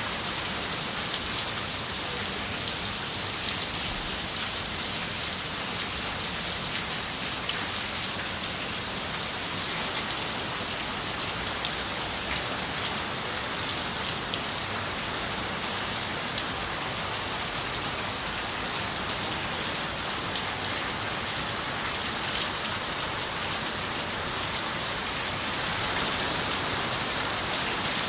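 Steady rain falling on a window, an even hiss with scattered drop ticks, a little louder near the end.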